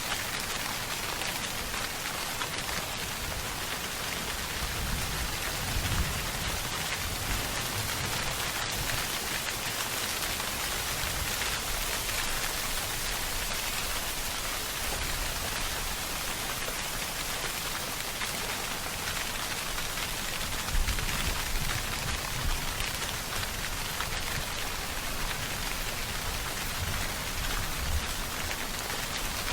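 Steady, heavy rainfall pattering on a surface, dense and even throughout, with a few brief low rumbles about six seconds in and around twenty-one seconds in.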